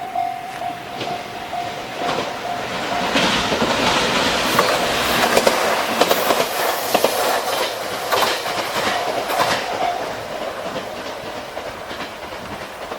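JR Kyushu 817 series electric train passing over a level crossing, its wheels clicking over the rail joints, loudest in the middle and fading away. The crossing's warning bell rings at the start and is heard again briefly near the end.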